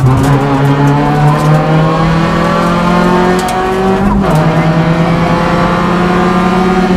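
Two-litre rally car engine heard from inside the cockpit, pulling hard: its pitch climbs steadily, drops with an upshift about four seconds in, then holds and climbs again.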